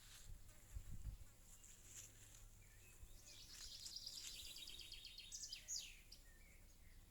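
Faint small-bird calls: a fast trill of rapid high notes in the middle, then a couple of quick downward-sliding chirps. A few low bumps come near the start.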